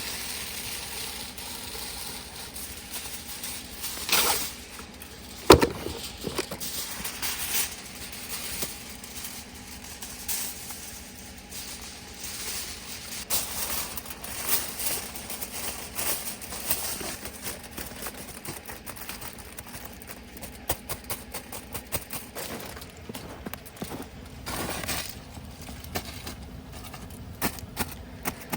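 Wood campfire crackling and popping irregularly, with one sharp pop about five and a half seconds in, over the steady low hum of an idling truck.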